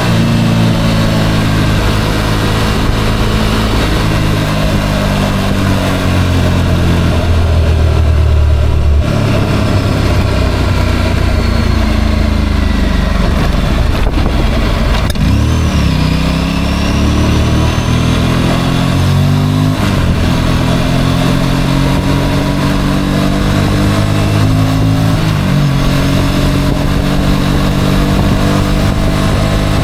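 Motorcycle engine under way, its pitch climbing and dropping again and again as it accelerates, shifts gear and slows.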